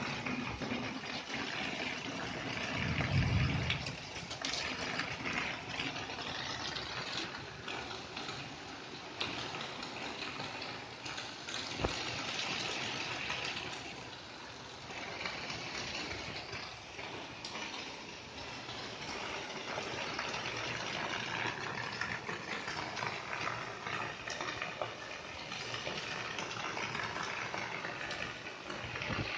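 Rain falling steadily, an even rushing hiss of water that swells and eases a little, with a brief low rumble about three seconds in and a single sharp knock near twelve seconds.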